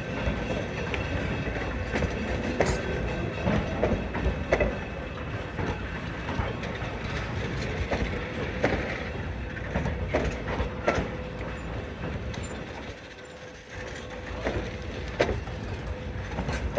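A narrow-gauge train rolling slowly through a rail yard: a steady rumble of wheels on rail with a faint steady squeal, and irregular clicks and clanks from the wheels and couplings every second or two.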